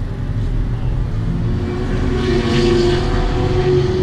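Car engine running with a steady low exhaust rumble, swelling louder with a held tone about two seconds in.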